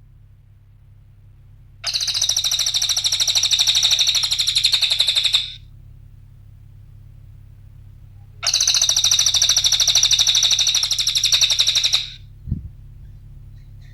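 Cililin songbird giving two long bursts of fast, high-pitched chattering trills, each about three and a half seconds long. The first starts about two seconds in and the second about eight and a half seconds in. A faint steady hum runs underneath, and two short low thuds come near the end.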